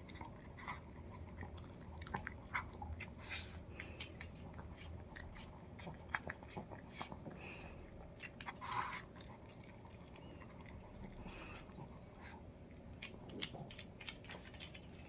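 A Pomeranian eating rice-cake soup from a bowl: faint, irregular chewing and biting clicks, with a couple of slightly louder bites.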